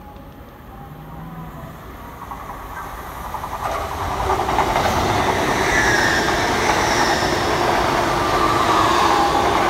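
LNER Azuma high-speed train approaching and running past along the platform. Its wheel and rail noise builds over the first few seconds, then stays loud, with high-pitched whines over the top.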